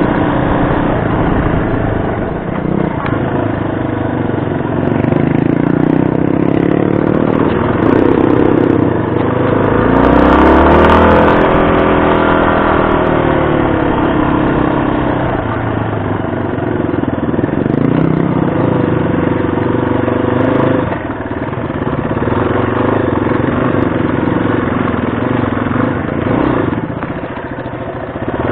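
Yamaha XT250 single-cylinder four-stroke engine running while riding, its pitch rising and falling with the throttle, with one clear rev up and back down about ten seconds in.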